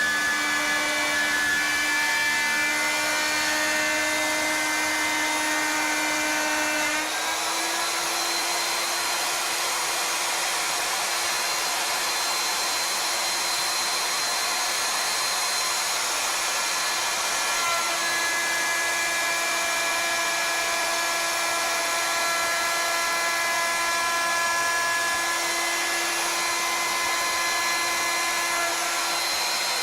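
Wood router spinning a half-inch two-flute straight bit on a CNC machine, cutting a hollow spiral into a wooden spindle: a steady whine over a cutting hiss. The whine steps slightly higher about seven seconds in and holds there.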